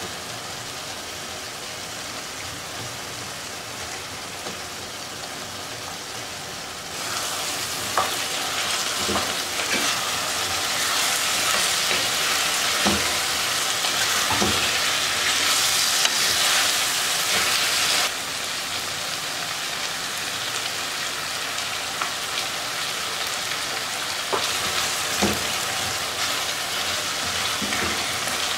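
Potatoes and vegetables in tomato sauce sizzling in a nonstick pan as a wooden spatula stirs them, with a few knocks of the spatula against the pan. The sizzle gets louder about a quarter of the way in and drops back about two-thirds of the way through.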